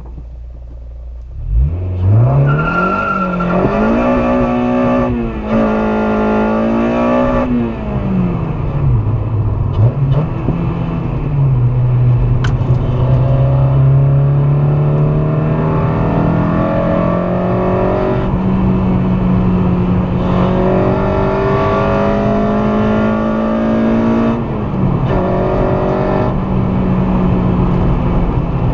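Honda Civic Si's swapped-in K24A2 2.4-litre four-cylinder engine under hard acceleration. It runs low, then revs up sharply about a second and a half in, and its pitch climbs and drops again at each gear change, with long steady stretches at speed between.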